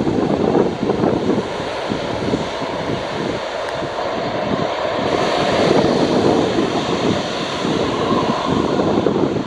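Jet engine noise from a Boeing 747-400 freighter, a steady roar with wind buffeting the microphone.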